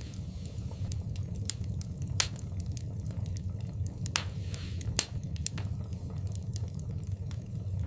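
Wood fire burning in a fireplace: a steady low rumble of flame with sharp crackles and pops every second or so, the loudest about two seconds in and again about five seconds in, and a brief hiss around four seconds in.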